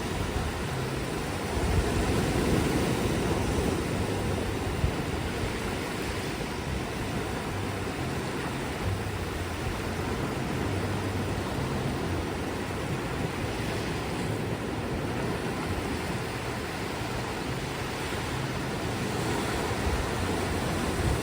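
Ocean surf washing onto a beach in a steady rush, swelling gently a couple of times, with some wind on the microphone.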